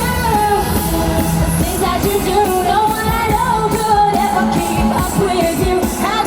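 Live pop-dance music with a female lead vocalist singing long, drawn-out notes over a full band mix.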